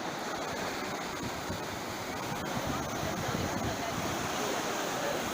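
Sea surf washing steadily onto the shore, a continuous rushing sound with no distinct breaks.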